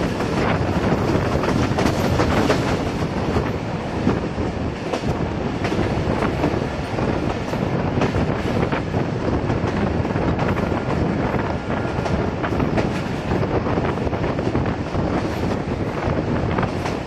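Passenger train running at speed, heard from an open carriage window: a steady rumble of wheels on the rails with irregular clicks over the rail joints.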